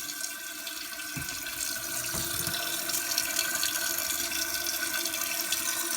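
Toilet tank refilling after a flush: a steady hiss of water running in through the fill valve, with a faint steady tone in it and slowly growing a little louder.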